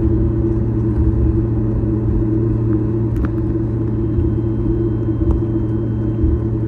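Steady cabin rumble of a Boeing 737-8 MAX with its CFM LEAP-1B engines, heard from inside the passenger cabin as a low roar with a steady hum. A few faint clicks come about halfway through and near the end.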